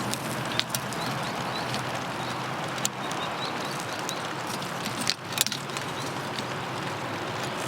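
Steady rain falling, an even hiss with a few sharp clicks now and then.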